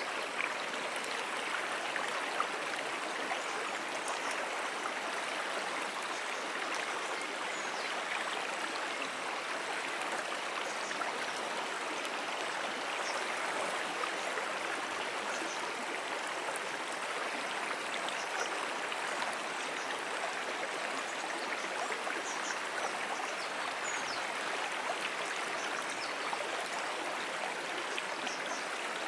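Moonan Brook's flowing water, a steady, even rushing of a shallow stream running over its bed. Faint, brief high-pitched chirps come and go now and then over the water.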